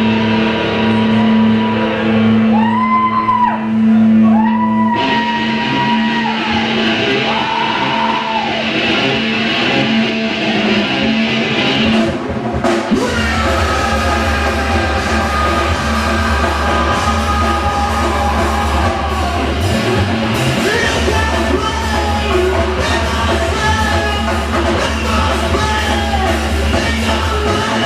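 Live rock band playing loud, with sung and yelled vocals over electric guitar. About thirteen seconds in, the bass and drums come in much fuller and heavier.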